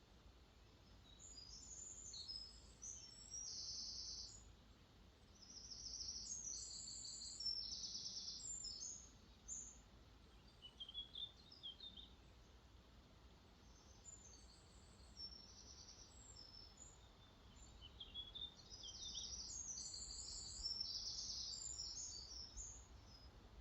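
Songbirds singing high, rapid chirping phrases in several bouts, with short pauses between them. Underneath runs a faint, steady low rush of lake water flowing out into a river.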